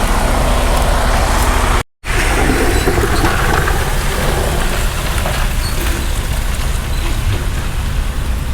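Steady low rumble of diesel semi-truck engines idling, with a brief break in the sound about two seconds in.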